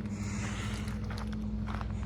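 BMW N54 twin-turbo 3.0-litre inline-six idling steadily, with faint rustling and light clicks over it.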